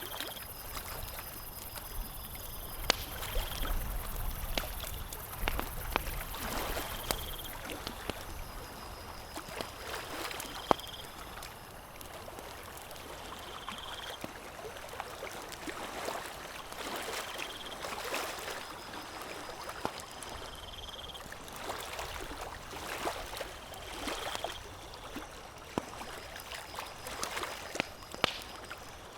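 Campfire crackling with sharp, irregular pops over a steady wash of lake water lapping. A short high chirp recurs every three to four seconds.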